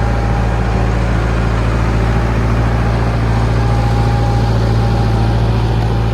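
John Deere 450B crawler dozer's diesel engine running steadily at a constant speed as the machine works through mud. A faint high whine comes and goes over it.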